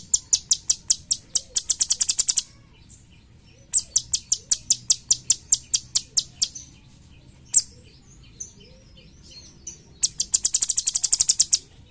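Cucak cungkok songbird giving fast strings of sharp, high, repeated chirps, the rapid-fire 'tembakan' calls used as a training song for other songbirds. The series come in bursts of two to three seconds with short pauses, and a faster, denser run starts near the end.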